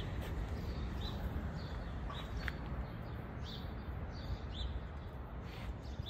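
Songbirds chirping: short, high chirps scattered through, several a second, over a low steady rumble.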